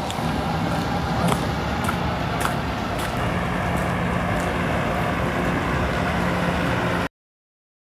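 Road traffic noise with the steady hum of a large vehicle's engine, with a few faint clicks. The sound cuts off abruptly about seven seconds in.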